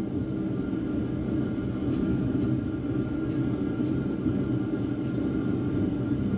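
Old John Deere diesel tractor engine running steadily at idle.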